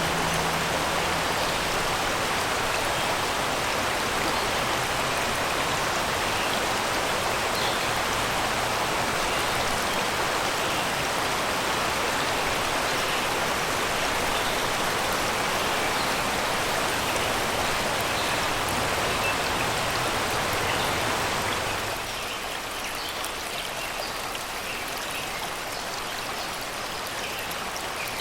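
Shallow river water rushing steadily over and around rocks and stones. About three-quarters of the way through it drops suddenly to a quieter, thinner rush. Faint short bird chirps sound through it.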